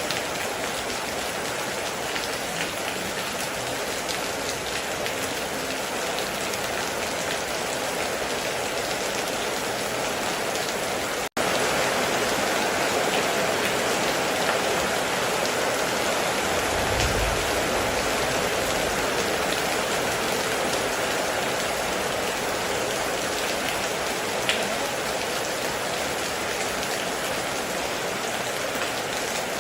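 Heavy rain drumming steadily on a metal roof. It cuts out for an instant about a third of the way in and comes back slightly louder, and a brief low rumble comes a little past halfway.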